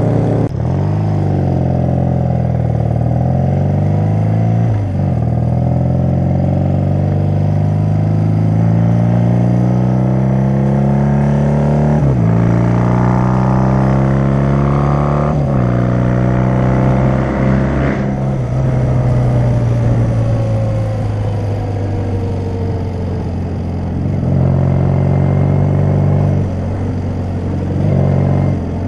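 Motorcycle engine heard from the saddle, accelerating through the gears: its pitch climbs and drops sharply at each of four upshifts. About two-thirds of the way through it falls away slowly as the throttle eases, then runs steadily at cruising speed.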